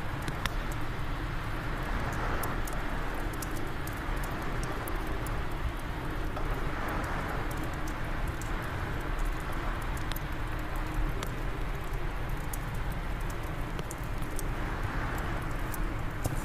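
Fireplace fire crackling, with frequent sharp pops and snaps over a steady bed of wind that swells in gusts a few times.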